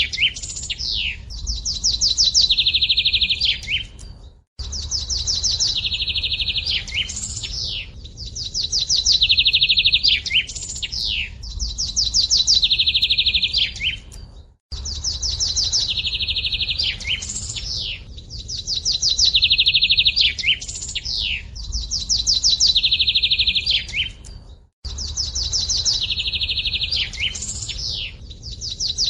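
Songbird singing the same phrase over and over, about every three seconds: a rapid high trill followed by a few quick downward-slurred notes. The song breaks off into brief silence about every ten seconds.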